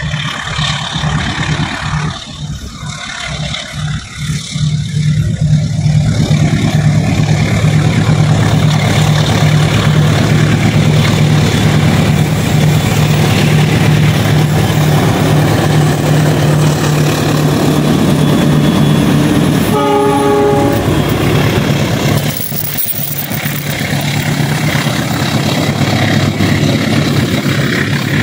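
Diesel-electric locomotive hauling a passenger train approaches and passes close by. Its engine hum grows loud about six seconds in, a short horn blast sounds about twenty seconds in, and the rumble of the carriages running past follows.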